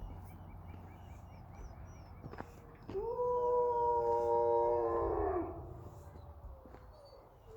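Several wolves howling together, each holding a long, steady note at its own pitch, starting about three seconds in and lasting a couple of seconds before fading, with a fainter howl trailing on near the end.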